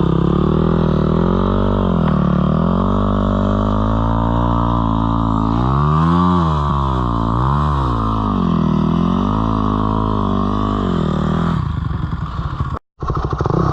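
Dirt bike engine running, its pitch rising and falling several times as the throttle opens and closes, with the biggest rev about halfway through. Near the end the engine note drops away and the sound cuts out for a moment.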